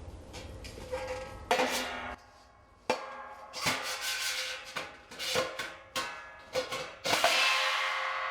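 Stainless-steel parts of a fire pit knocking and clinking together as they are handled, a dozen or so metallic knocks with short rings, then one louder clang near the end that keeps ringing and slowly fades.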